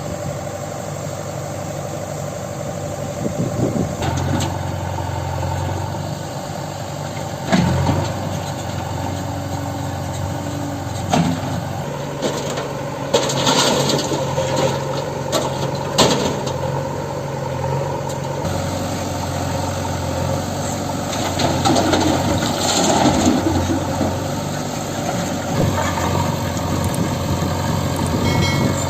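Heavy diesel engine running steadily, its pitch shifting slightly a couple of times, with a few sharp knocks.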